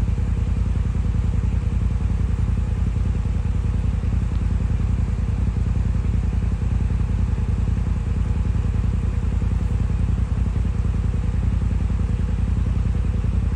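Jeep Cherokee XJ's engine idling steadily, a low, even pulsing rumble.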